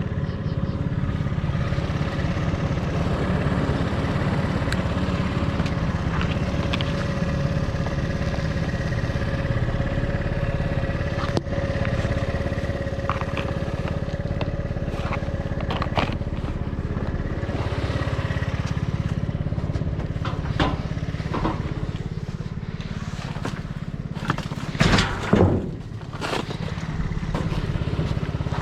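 A motor vehicle engine running steadily, with scattered clicks and knocks over it. About 24 to 26 seconds in there is a louder, briefer stretch of sounds whose pitch rises and falls.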